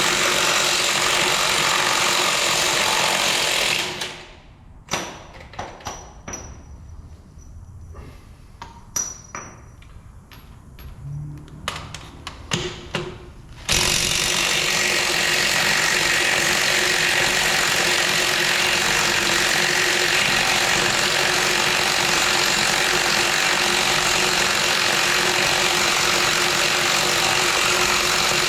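Steady engine running noise. About four seconds in it dies away, leaving a quieter stretch of scattered sharp clicks and knocks of hand tools. The engine noise cuts back in abruptly about ten seconds later.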